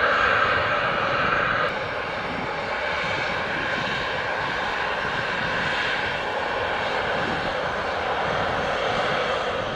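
Jet airliner engines running, a loud, steady noise. A strong higher band in it drops away suddenly under two seconds in, and the rest carries on a little quieter.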